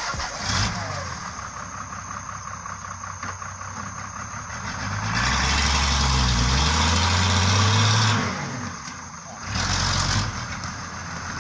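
Heavy truck's diesel engine running, then revving hard under load for about three seconds midway, with a second, shorter surge near the end, as the truck works to pull through slippery mud.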